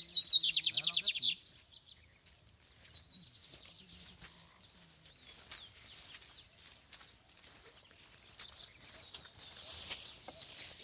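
Lined seedeater (bigodinho) singing: a loud, fast trill of evenly repeated notes in the first second and a half, then softer scattered chirps and whistles.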